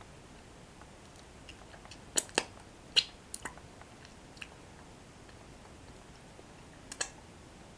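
Close-miked crunching of toasted breadsticks being bitten and chewed: a quick run of sharp crunches about two to three and a half seconds in, then another crunch near the end.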